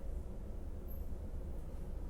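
Steady low rumble with a faint hum, with no distinct events.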